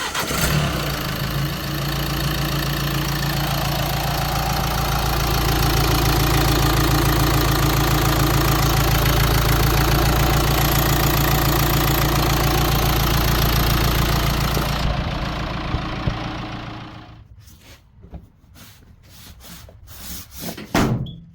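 Nissan Qashqai's 1.5 dCi four-cylinder diesel engine starting and idling steadily with diesel clatter, the run-up check after an oil change, then switched off about fifteen seconds in. A few short knocks follow near the end.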